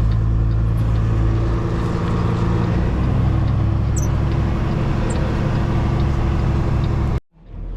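Semi-truck diesel engine running at low speed during slow reversing, a steady low drone. It cuts off abruptly near the end, then returns more quietly.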